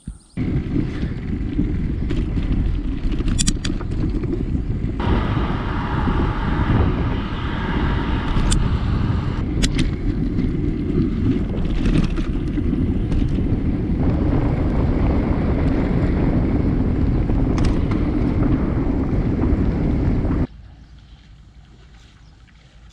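Wind buffeting the microphone of a bicycle in motion, mixed with tyre rumble on an unpaved gravel-and-dirt track and scattered sharp clicks. It starts suddenly and cuts off suddenly about twenty seconds in, leaving a faint background.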